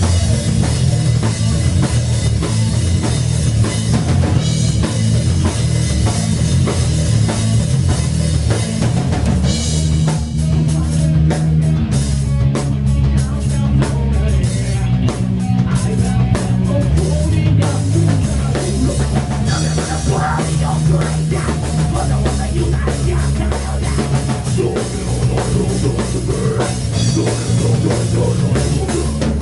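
Rock band playing a heavy metal song: distorted guitars, bass and a pounding drum kit.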